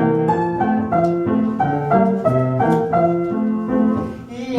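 Piano-like instrumental interlude of a children's song: a bouncy run of notes over a bass line between sung verses. It dips briefly just before the singing resumes.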